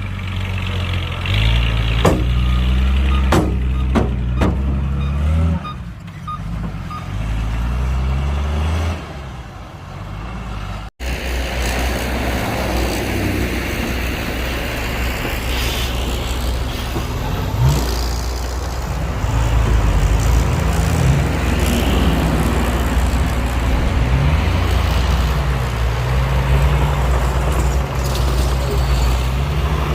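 Heavy diesel engines of earthmoving machines running, their engine speed rising and falling in steps, with a few sharp knocks in the first seconds. After an abrupt cut about eleven seconds in, a louder, rougher engine sound runs steadily.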